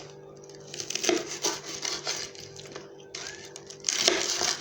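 Knife cutting through fried breaded chicken cutlets, a few short crunching, scraping strokes through the crisp crust, over a steady low hum.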